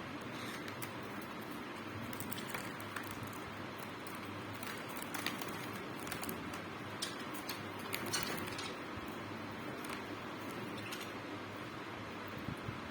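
Small birds giving scattered short chirps and clicks over a steady hiss.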